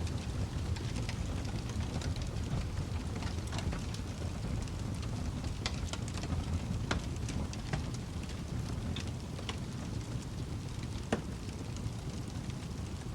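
Wood fire burning with a steady low rumble and scattered sharp crackles and pops, one louder pop about eleven seconds in.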